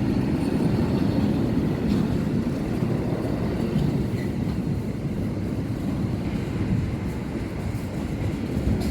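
A train running past: a steady low rumble of wheels on rails with a few faint clicks, easing slightly toward the end.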